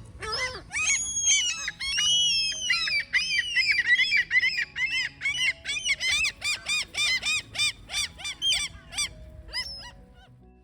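A gull giving its long call: a few drawn-out, high, wailing notes, then a rapid run of shorter yelping calls, about three or four a second, that stops near the end.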